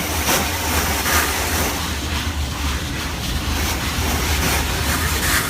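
Automatic car wash heard from inside the car's cabin: water spray and washing machinery beating against the body in an uneven rush, over a steady low rumble.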